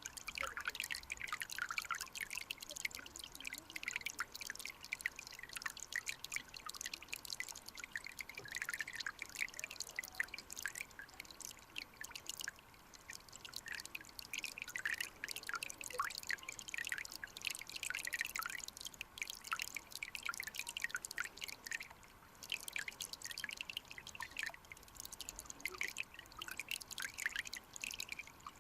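Water of a clear mountain stream trickling, with a dense, irregular patter of small drips and bubbles.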